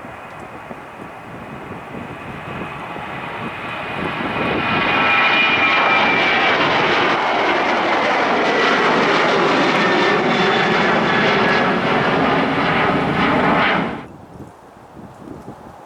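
Jet airliner's engines growing louder as it approaches, then loud and steady with a high whine that slides slightly lower in pitch, cutting off abruptly about fourteen seconds in.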